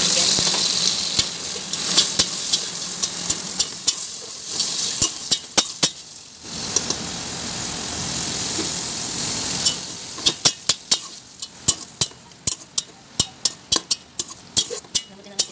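Chicken pieces sizzling in hot oil and garlic as they are stirred with a metal slotted spoon, the spoon clinking and scraping against the pot. About ten seconds in the sizzle fades, leaving a quick run of sharp spoon knocks against the pot.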